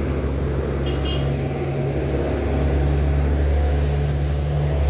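Steady low rumble of wind buffeting the microphone during a bicycle ride, with a brief faint high chirp about a second in.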